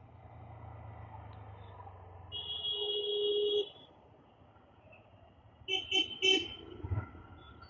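Vehicle horn sounding in traffic: one long honk of just over a second, then about two seconds later three quick short toots, over a low rumble of engine and road noise.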